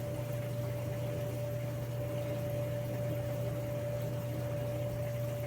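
Steady machine hum with a single steady whine over it and a light hiss.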